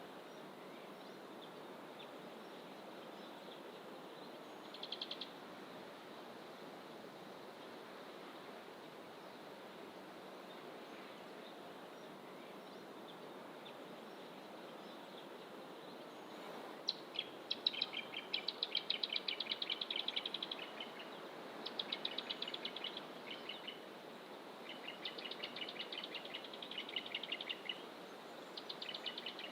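Wild songbirds in fynbos bush: a brief high call about five seconds in, then from about halfway on several phrases of fast, rapidly repeated notes, one after another with short gaps, over a steady background rush.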